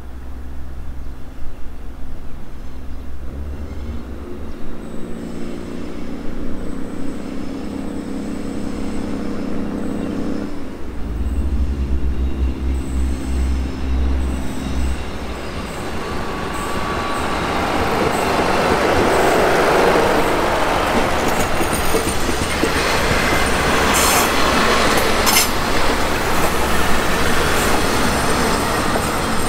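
Daewoo diesel multiple unit approaching with its diesel engines running, the engine note changing about four seconds in and again about eleven seconds in. It then rolls past close by with loud, building wheel-on-rail noise and a few sharp clacks near the end as the wheels cross rail joints.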